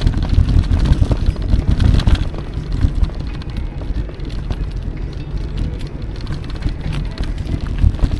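Ride noise from an electric mountain bike on a trail: wind buffeting the microphone, with a loud low rumble and many small clicks and rattles from the bike over the rough surface.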